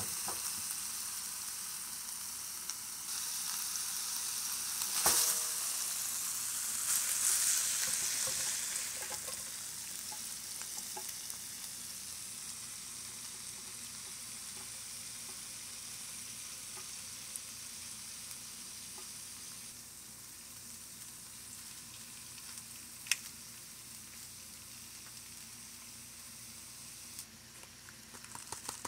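Cubed steak and shrimp sizzling in a hot pan, a steady frying hiss that swells a few seconds in and then settles to a softer sizzle. A few sharp clicks of a utensil on the pan.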